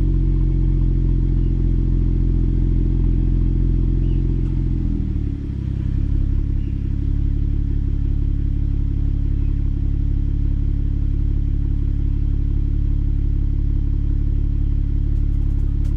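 Alpina B3 Biturbo's N55 straight-six idling through an Akrapovič exhaust, a deep, steady note. About five seconds in the idle drops to a lower speed and then holds steady, as the fast cold-start idle settles.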